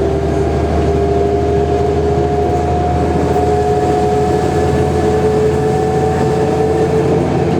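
Mercedes-Benz O345G articulated bus under way, its diesel engine and drivetrain running with a low rumble and a whine that rises slowly in pitch as the bus gathers speed.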